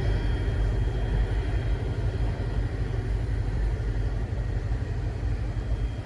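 Steady low rumble of a diesel-hauled train's locomotives running.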